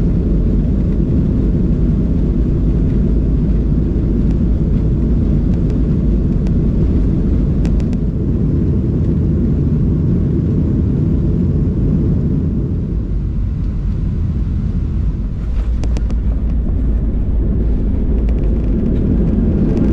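Boeing 737-700 cabin noise heard from a passenger seat: a loud, steady low rumble of the engines and rushing air. A few brief knocks come near the middle and again about three-quarters of the way through.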